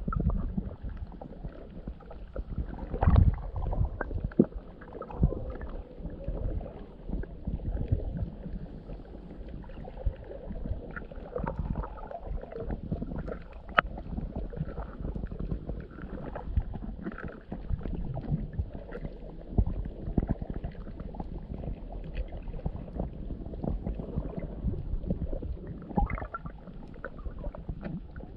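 Muffled water sloshing and gurgling as heard by a camera underwater, with irregular low thumps and knocks throughout.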